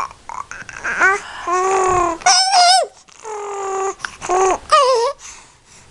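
A five-month-old baby vocalizing in a run of short, high-pitched squeals and longer held coos, several with a wavering, wobbling pitch.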